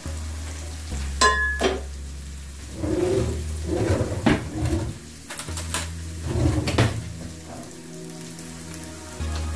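Spring onions, garlic and green chillies sizzling in oil in a wok, with a few sharp clinks of cookware and utensils.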